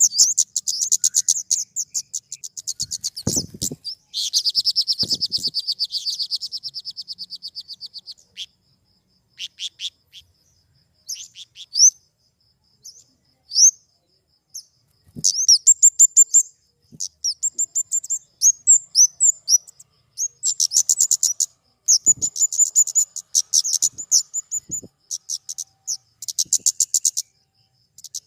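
Flowerpecker singing: series of very rapid, high-pitched chipping trills in bursts with short pauses. One longer trill a few seconds in slowly fades away.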